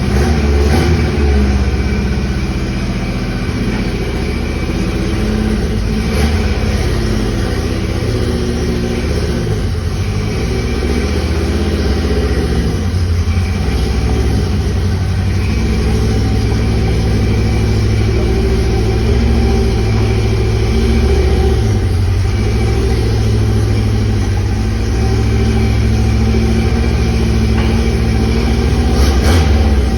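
Engine of the B16 car running warm just after its pre-heated start, idling with the revs rising and falling several times under the throttle.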